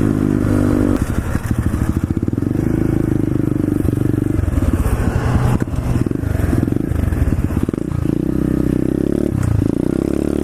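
Single-cylinder four-stroke engine of a 125cc SSR pit bike running as it is ridden, the revs rising and falling with several throttle changes.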